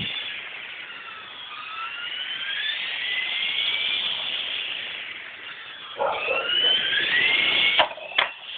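Electric motor and main rotor of a Blade 400 3D RC helicopter whining, the pitch gliding up and down as the throttle changes. About six seconds in it gets louder and rougher, then two sharp knocks near the end as the helicopter strikes something.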